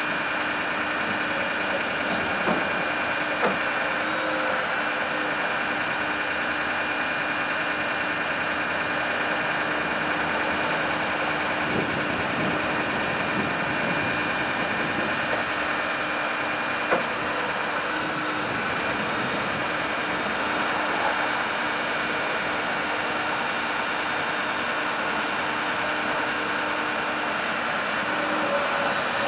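Ford F550 bucket truck engine running steadily with the PTO engaged, powering the hydraulics of the Altec AT37G boom as it is operated. A few sharp clicks come through, one about 17 seconds in.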